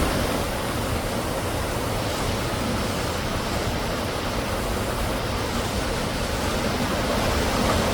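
Canyon waterfall: a steady rush of falling water with no breaks or changes.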